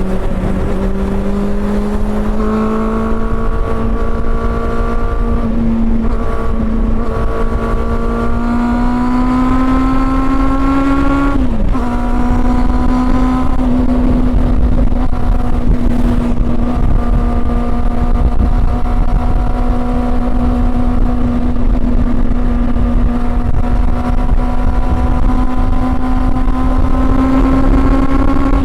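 Honda CB400 Super Four's inline-four engine under way, its note climbing slowly as it pulls through a gear. About eleven seconds in the pitch drops sharply at an upshift, then holds nearly steady and creeps up again, over low wind and road noise.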